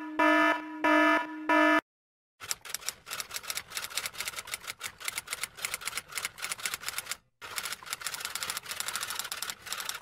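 Electronic alarm beeping at one steady pitch: a few short beeps in even succession that stop just under two seconds in. About two and a half seconds in, a fast, dense run of typing key clicks starts, with a brief pause near seven seconds.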